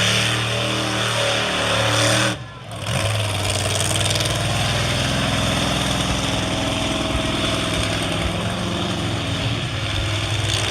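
Monster truck engine running steadily at a fast idle, with a brief drop about two and a half seconds in.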